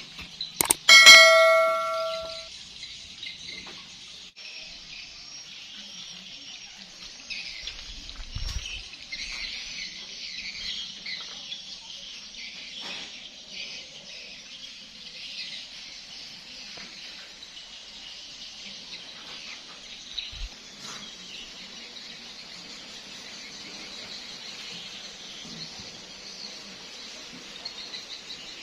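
A single ringing metallic strike about a second in, fading over a second or so, then steady high chirping of birds for the rest of the time.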